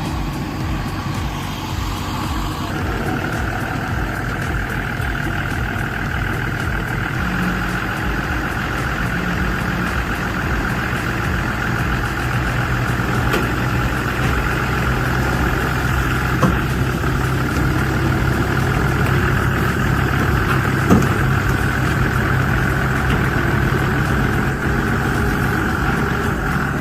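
Heavy diesel tractor engines running steadily in field mud, with a couple of short knocks partway through.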